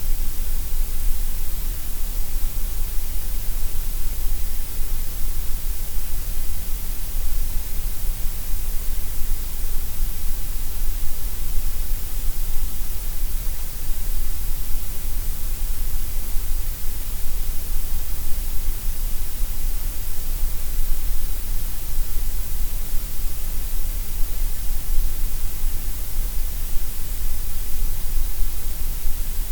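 Gray noise: a steady, unchanging hiss spread evenly across the whole range, fuller in the low end and the top than in the middle.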